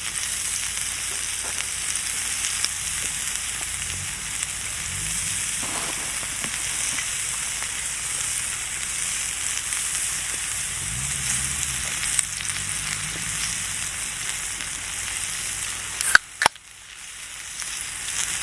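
Wagyu beef sizzling steadily on a hot iron grill plate. Near the end come two sharp clicks, after which the sizzle briefly drops away.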